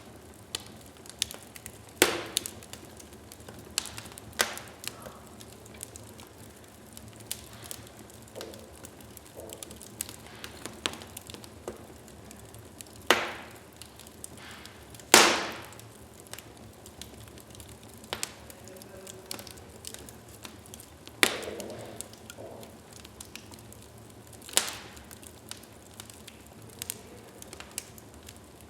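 Wood fire burning in a fireplace: steady soft crackling with frequent small ticks and about six loud, sharp pops, the loudest about halfway through.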